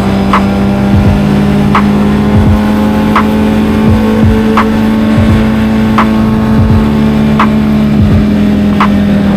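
Kawasaki Z900's inline-four engine running at a steady cruise, its note holding even. A short light tick repeats about every second and a half.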